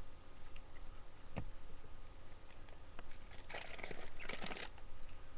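Wrapper of a Topps baseball card pack crinkling and tearing as it is worked open, in two short bursts in the second half, after a couple of faint clicks.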